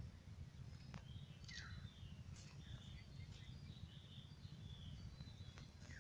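Faint bird chirps and a few short downward-sliding calls, scattered over a low steady rumble of outdoor ambience.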